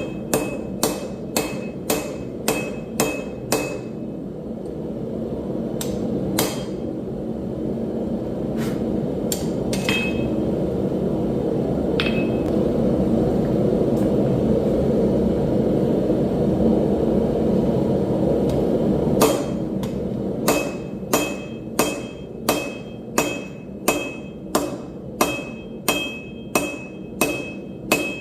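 Hand hammer blows on hot steel over an anvil during forging, about two strikes a second with a ringing note on each. The hammering stops about four seconds in and gives way to a steady rushing noise with a few single taps, then picks up again at the same pace near the end.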